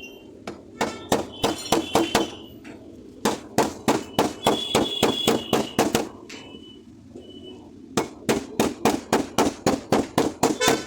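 Rapid hammer taps on a car door's sheet metal during dry-dent (paintless dent) repair, in three runs of about four strikes a second with short pauses between them.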